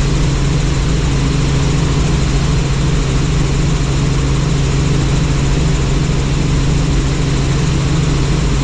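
Helicopter in flight, its engine and rotors making a loud, steady drone.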